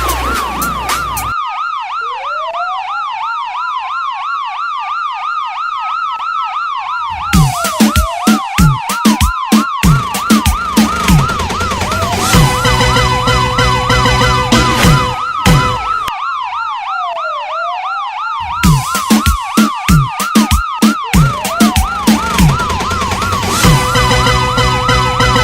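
Electronic sirens sounding together: a fast up-and-down yelp over a slow wail that rises and falls every few seconds. A pounding electronic beat joins in three times, about 7, 12 and 18 seconds in.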